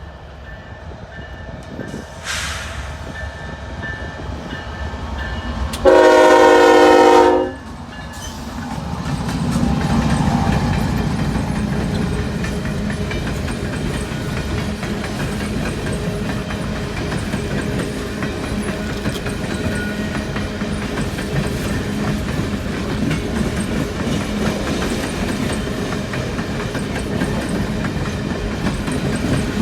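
Horn blast from a CP ES44AC diesel-electric locomotive, a single loud chord of about a second and a half, then the locomotive's engine rumble swelling as it passes, loudest about ten seconds in. A steady rolling of the empty coal train's cars follows.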